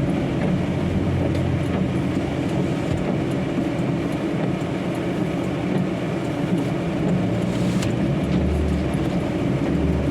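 Steady drone of a truck's engine and road noise heard from inside the cab while driving.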